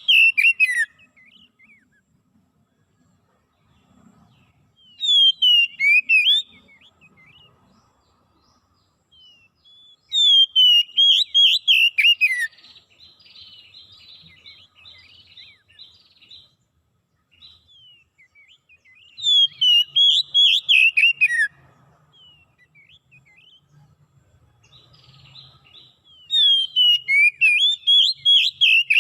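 A songbird singing loud phrases of quick whistled notes. Each phrase lasts about two seconds and comes five times, several seconds apart, with faint chirps in between.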